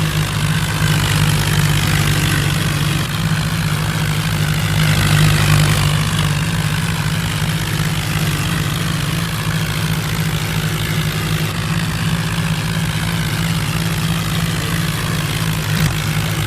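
Tractor engine running steadily, with a slight swell about five seconds in.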